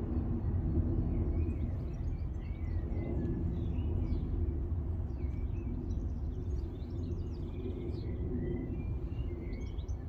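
Small birds chirping, many short high calls coming in about a second and a half in, over a steady low background rumble.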